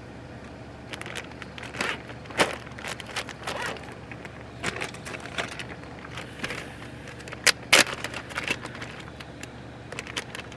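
Irregular rustling, crinkling and sharp clicks of food packaging being handled during sandwich making, the loudest two clicks close together about three-quarters of the way in. Under them runs the steady low hum of an electric heater.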